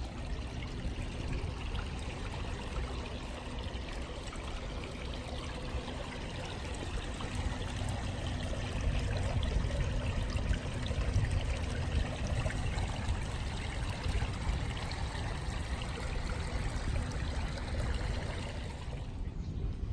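Running water trickling steadily, cutting off just before the end.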